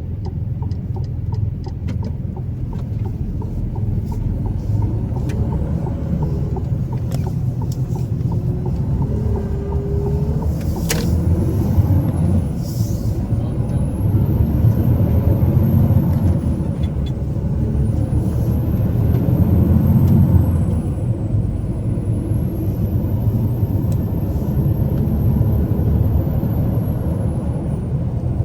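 Truck engine and road rumble on the move, steady and low. A thin high whine rises and falls several times in the second half, with a sharp click about eleven seconds in.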